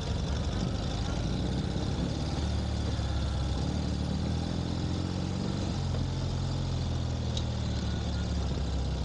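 Ural sidecar motorcycle's boxer-twin engine running at low road speed, its note stepping up a few seconds in and dropping back about halfway through as the throttle changes, with wind and road noise.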